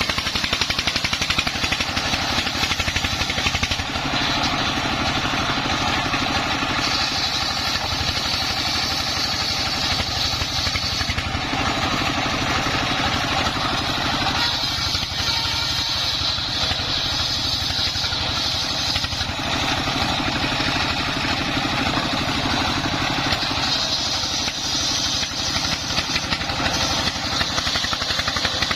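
Single-cylinder Dongfeng diesel engine running steadily with a fast regular chug, driving a homemade circular saw. A higher cutting sound swells and fades several times as pieces of wood are fed through the blade.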